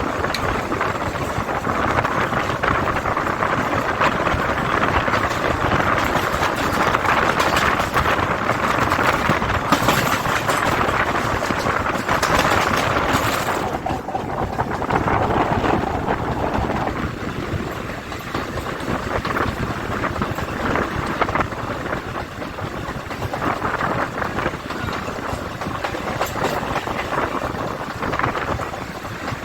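Kolkata suburban electric local train running, giving a steady rushing rail noise that eases a little about halfway through.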